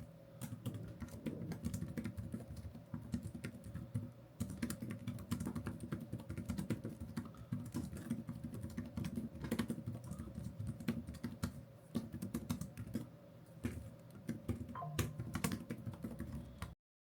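Typing on a computer keyboard: quick, irregular key clicks that cut off suddenly near the end.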